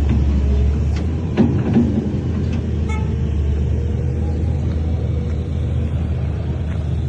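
Heavy diesel engine of earthmoving machinery running steadily with a low drone, with a few sharp metallic knocks in the first two seconds.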